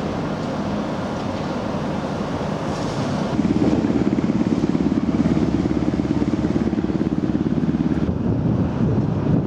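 Boat engine running steadily, turning louder with a fast, even throb about three seconds in and easing again near the end.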